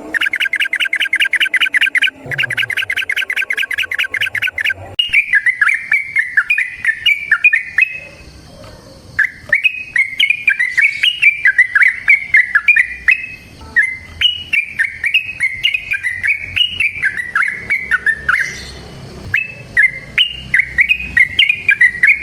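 A yellow-vented bulbul (trucukan) singing. It opens with a fast trill of rapidly repeated notes, then about five seconds in it changes to bubbly, chattering phrases of jumping notes, separated by brief pauses.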